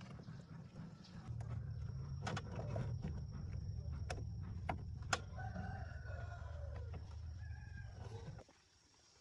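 A rooster crowing, one long bending call, over a low steady rumble with a few sharp clicks; the rumble cuts off suddenly near the end.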